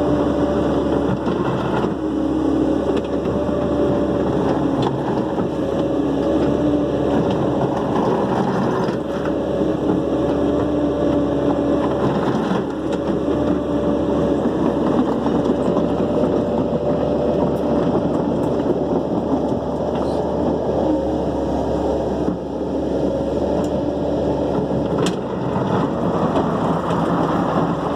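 Dump truck engine running steadily at a constant pitch.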